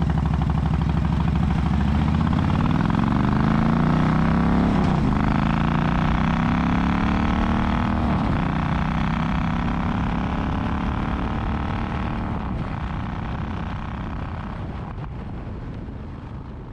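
Harley-Davidson Knucklehead V-twin engine in an FXR running on its first start after the build. Its revs climb, drop sharply about five seconds in and climb again until about eight seconds, then the sound slowly fades away.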